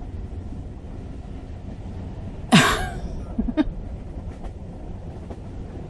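Steady low rumble of train-carriage background ambience, with a woman's single short, breathy vocal burst falling in pitch about two and a half seconds in.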